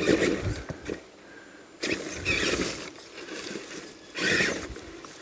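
Tamiya TXT-2 RC monster truck's motor and drivetrain whining in three short bursts of throttle, with brush rustling as the wheels push against a stick. A tire is hooked under the root, holding the truck back.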